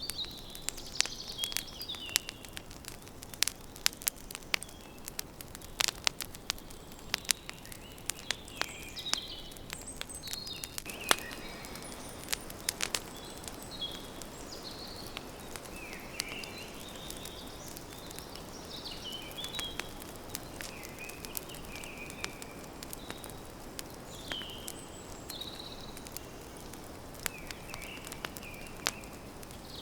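Campfire crackling and popping with sharp snaps, most frequent in the first half, while small birds chirp and trill repeatedly.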